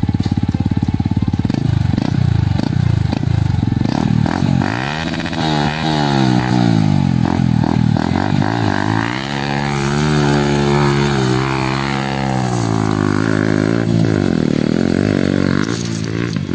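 Yamaha R15 dirt-bike conversion's single-cylinder four-stroke engine running under throttle as it is ridden: choppy and uneven at first, the pitch rising about five seconds in, holding fairly steady for a few seconds, then dropping and picking up again near the end.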